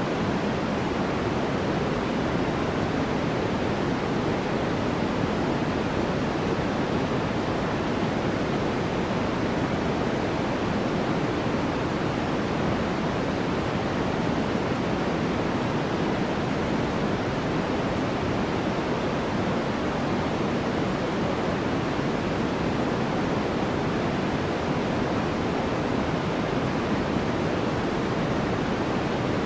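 Steady, unchanging white noise played for sleep: an even rushing hiss that leans toward the deeper, softer end rather than a bright hiss, with no rises, breaks or other sounds.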